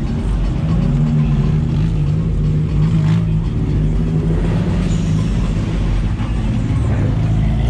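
Car engine running at a steady idle, its note rising slightly about halfway through.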